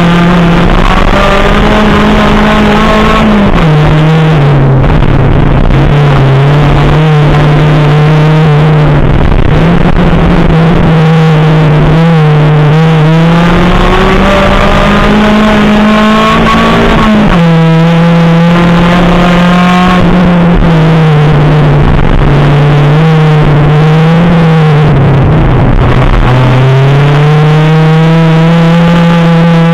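Rallycross car's engine heard from inside the cabin at race pace, very loud, its revs repeatedly climbing and then falling away sharply, about 3 s and 17 s in, and dipping and rising again several more times.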